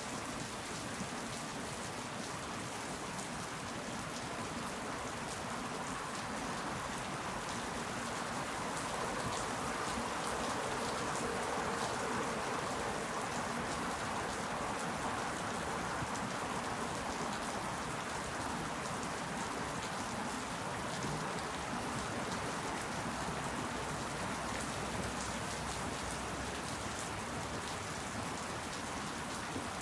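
Steady rain falling and pattering on leaves, a dense even hiss with many small drop ticks, swelling slightly in the middle.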